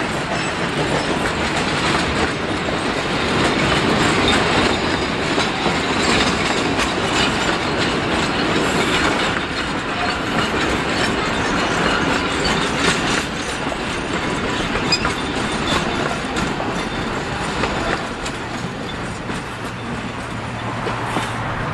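Steam-hauled passenger train running on the track: wheels clicking over the rail joints under a loud, steady rolling noise.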